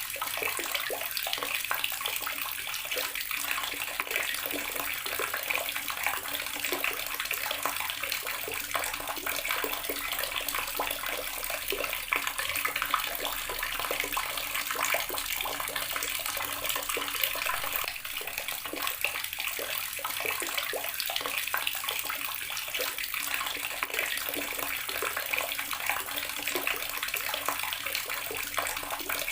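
Garden water tap running steadily: a continuous stream of water splashing, unchanging throughout.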